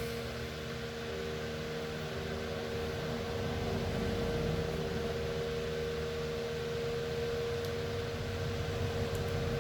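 Electric fan running steadily: a constant whir with a steady hum under it.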